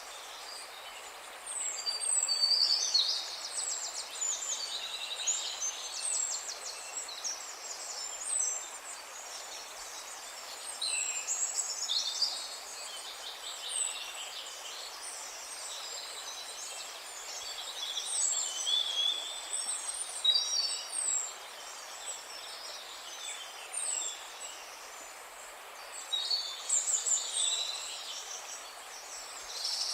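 Several birds singing and calling: a short high falling chirp repeated every second or two, with louder trilling song phrases coming and going, over a steady faint background hiss.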